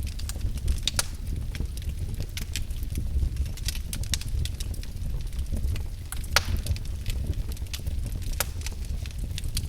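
Wood fire burning in a fireplace: a steady low rumble of the flames with irregular crackles and pops, one sharp pop standing out about six and a half seconds in.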